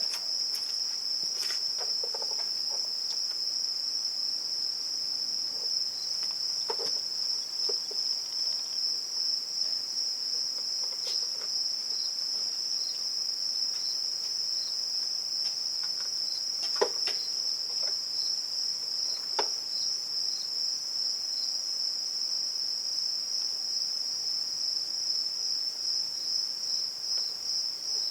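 A steady, high-pitched chorus of insects trilling without a break, with a few sharp clicks now and then, the loudest about two-thirds of the way in.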